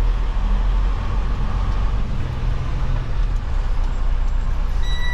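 Semi-truck's diesel engine running with a steady low rumble, heard from inside the cab. Near the end a reversing alarm starts a steady high-pitched beep.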